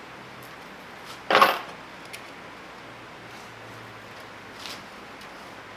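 A sharp metallic clank about a second and a half in, with a few light clicks and a softer knock near the end, from handling the wire spool and metal parts inside a MIG welder's wire-feed compartment.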